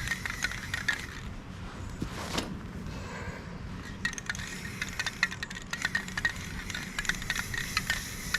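Aerosol spray-paint can being shaken, its mixing ball rattling in quick clicks, with a pause in the middle holding a brief spray hiss.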